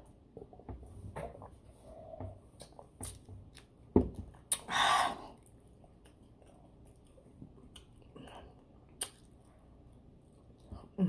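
A person chewing and eating fried chicken and fries close to the microphone, with many small mouth clicks. There is a sharp knock about four seconds in and a short hissing rush just after it.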